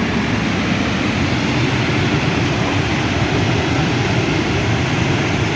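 Swollen floodwater of a river in spate rushing past in a steady, loud roar of noise, with a low rumble under it.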